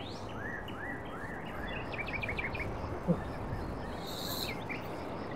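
A small bird chirping over a steady background hiss: a run of short rising chirps in the first second or so, then a quicker string of higher chirps, with a single soft knock about three seconds in.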